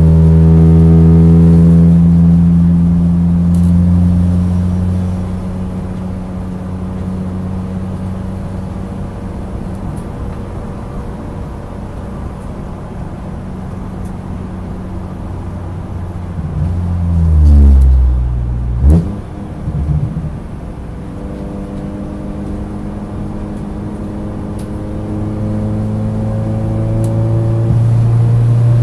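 Racing saloon car engine at full throttle, easing off over the first few seconds into a rougher, noisier stretch. About seventeen seconds in there is a loud downward sweep in pitch and a sharp bang, then a second, smaller knock. The engine then pulls up through its revs again.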